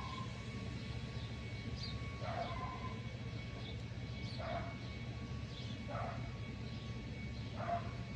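An animal calling in short single calls, about one every one and a half to two seconds, five in all, over a steady low rumble.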